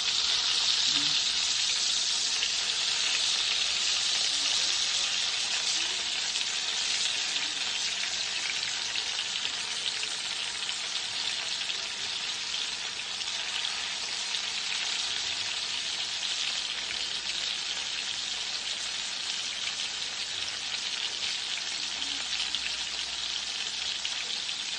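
Flour-coated chicken cutlets shallow-frying in hot oil in a skillet: a steady sizzle, a little louder in the first few seconds as the pieces are turned with tongs.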